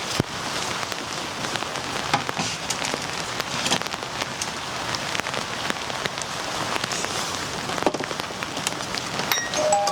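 Steady rain with individual drops tapping irregularly on a surface, a constant hiss dotted with sharp ticks.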